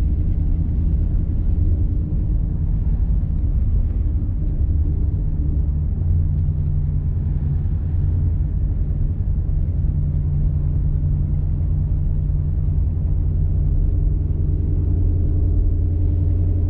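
Ford Mustang GT's 5.0 V8 with a full aftermarket exhaust, running at low speed with a loud, steady low rumble that shifts pitch slightly about six seconds in.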